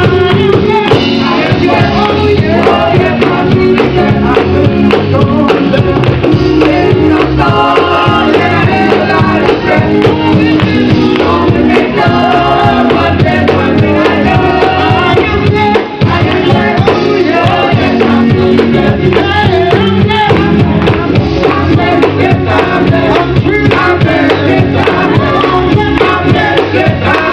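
Gospel group singing live with band accompaniment and tambourine: several voices in harmony over a steady beat.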